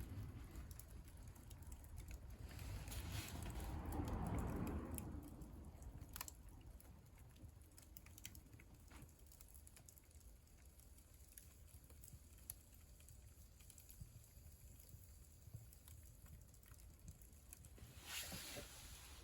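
Wood burning in a wood stove: faint, irregular crackling and ticking from the fire. A louder rustle swells for a couple of seconds near the start, and a brief rush of noise comes near the end.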